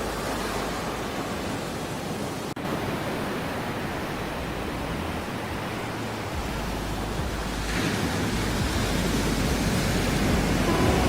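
Ocean surf washing in: a steady rush of waves that swells louder from about eight seconds in, with a momentary dropout in the sound about two and a half seconds in.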